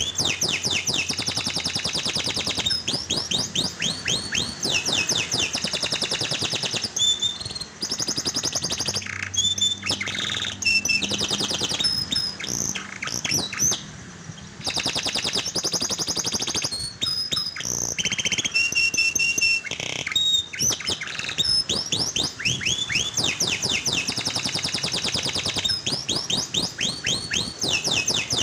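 Domestic canary singing a long, continuous song of fast trills, rapid runs of repeated downward-sweeping notes and held high whistles, with a short break about halfway through.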